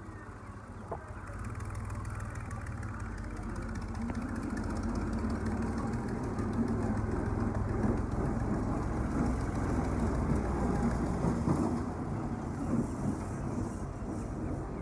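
An engine running steadily, getting louder over the first few seconds and then holding.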